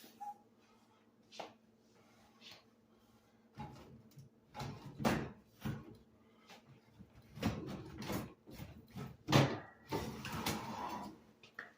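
Scattered clicks, knocks and clatters of dishwasher door parts being handled and worked loose during disassembly. They come in bursts after a quiet start, and the loudest knock falls a little past nine seconds in.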